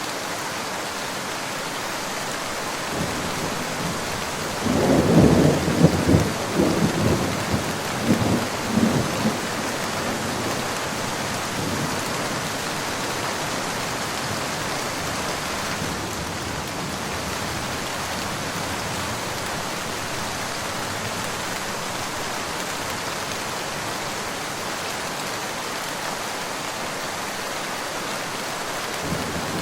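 Steady rain falling, with a roll of thunder starting about four seconds in that rumbles in several peaks for around five seconds before dying away; another thunder rumble begins right at the end.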